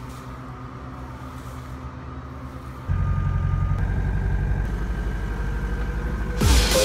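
Truck engine idling steadily, getting louder about three seconds in, with a burst of hiss near the end.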